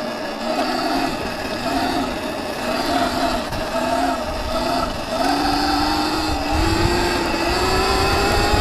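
Viper S electric dirt bike's motor whining under way, its pitch rising and falling in short surges with the throttle, then climbing steadily as the bike speeds up about five seconds in. A low rumble of wind and tyres grows louder as it picks up speed.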